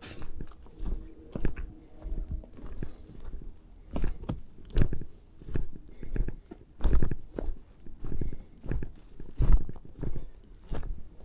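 Footsteps crunching through forest undergrowth, about one step a second.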